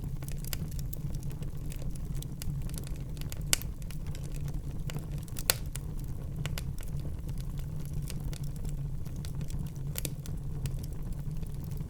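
Wood fire burning in a fireplace: a steady low rumble of the flames under irregular sharp crackles and pops, two louder pops about three and a half and five and a half seconds in.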